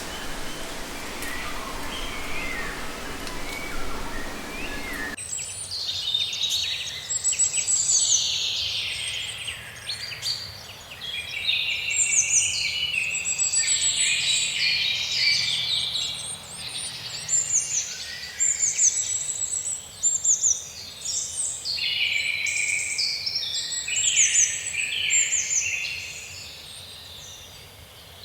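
Wild birds calling, at first faint and sparse over a low hum. About five seconds in, the sound switches abruptly to a dense chorus of many birds chirping and trilling over one another, high-pitched.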